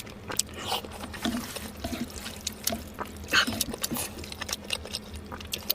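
Someone eating: wet chewing and mouth sounds, many small irregular clicks and smacks.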